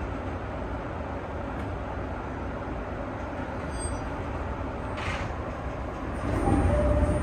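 Steady low rumble of a stationary E217-series electric train, heard from the driver's cab during a station stop. There is a short click about five seconds in; near the end the sound grows louder and a steady tone joins it.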